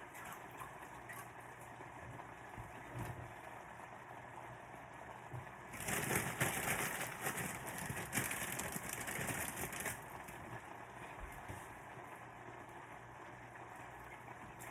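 Curry cooking on the stove, with a low steady crackle and bubble. About six seconds in, a louder hiss sets in for about four seconds, then drops back.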